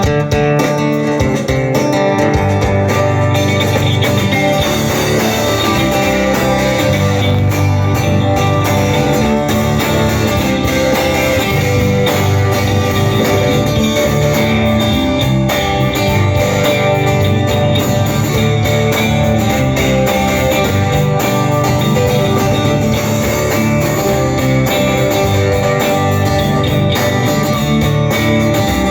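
Live band playing without a break, with strummed guitars over a steady bass line.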